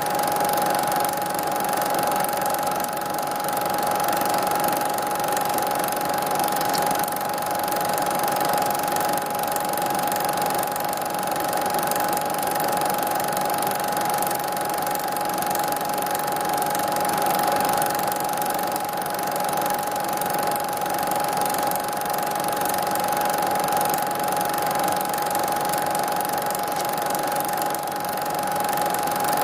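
Steady mechanical running with a constant high whine over an even hiss, unchanging throughout.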